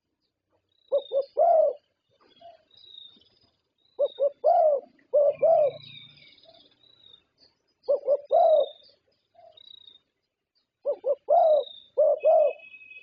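Zebra dove (perkutut) cooing. It sings four rhythmic phrases of short staccato notes ending in longer rolling coos, with faint high chirps of other small birds between them.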